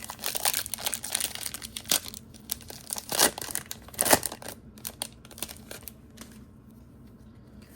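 Foil Pokémon booster pack wrapper being crinkled and torn open, a dense crackling for about four and a half seconds with two louder crackles near the middle, then fainter handling.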